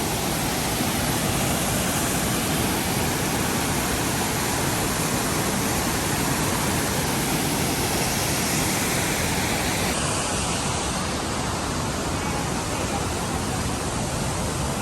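Steady rushing roar of a waterfall, Multnomah Falls, heard from the top of the falls. Its highest hiss thins slightly about ten seconds in.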